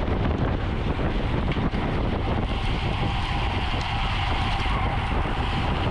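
Wind rushing over the microphone of a camera on a road bicycle moving at race speed, with steady tyre and road noise. A faint, steady higher hum joins about halfway through.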